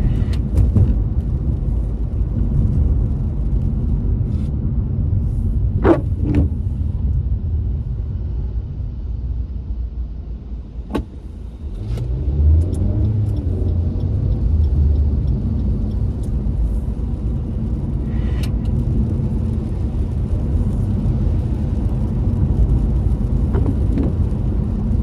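Car driving, heard from inside: a steady low rumble of engine and road noise with a few scattered clicks. The rumble dips briefly about ten seconds in, then builds again.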